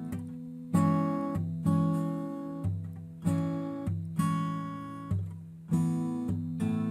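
Background music: acoustic guitar strumming chords about once or twice a second, each chord ringing and fading before the next.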